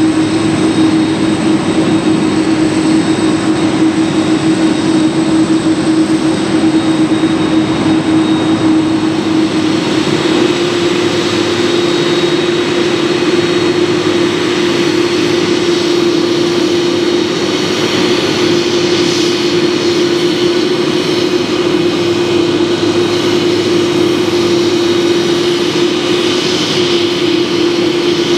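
Lufthansa Boeing 747-400's four jet engines running steadily at low power, a strong low hum with a thin high whine over a broad roar and no spool-up.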